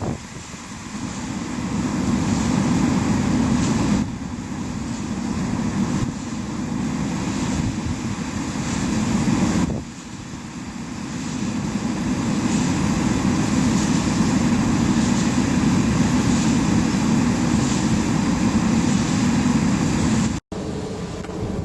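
Wind buffeting the microphone: a rough, low rumbling noise that swells and eases, cutting abruptly about four and ten seconds in and dropping out briefly near the end.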